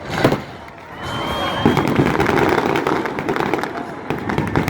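Fireworks going off: a single bang just after the start, then from about a second in a dense, continuous run of rapid crackling pops and bangs.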